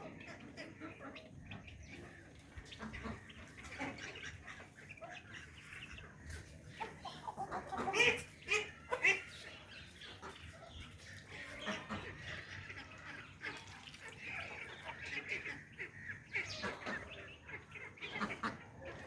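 Mixed flock of domestic ducks and hens calling while they feed, with many short, scattered calls; the loudest come about eight to nine seconds in.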